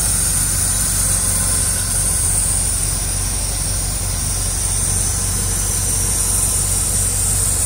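1973 Corvette Stingray's Chevrolet V8 idling steadily, running again after 25 years of sitting. A steady high hiss sits over the engine note.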